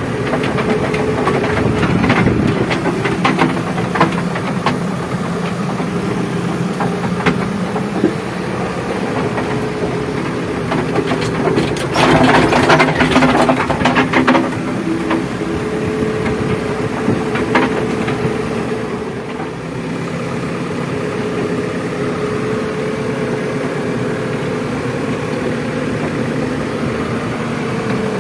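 Heavy diesel machinery running steadily while a JCB 3DX backhoe loader loads earth into a tractor trolley. Scattered knocks and clanks sound throughout, with a louder stretch of rattling clatter about twelve seconds in that lasts a couple of seconds.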